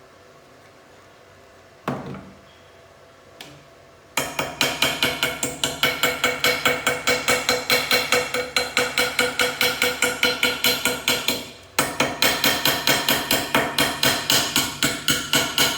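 A hammer striking metal over and over, about four ringing blows a second, with a short break near the end. Before that come two single knocks.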